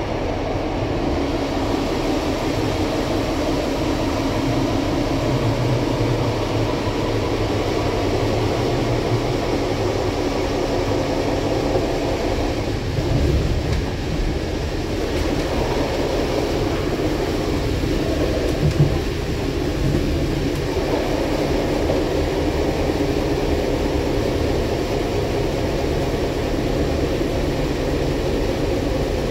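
Passenger railway coach running along the track, heard from inside: steady running noise of wheels on rail with a constant hum. There is a brief louder bump about two-thirds of the way through.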